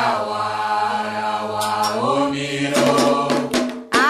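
Voices singing a Candomblé chant in Yoruba, holding long notes, with the pitch stepping up about two seconds in. Sharp percussion strikes join from about three seconds in.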